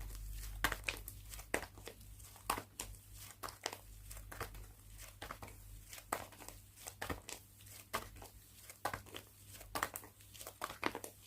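Slime being squeezed, stretched and pressed by hand, giving a run of small irregular pops and crackles, a few every second.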